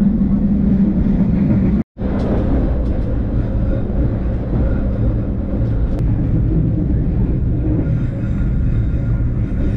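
Steady rumble of a moving passenger train heard from inside the carriage. The sound cuts out for an instant about two seconds in.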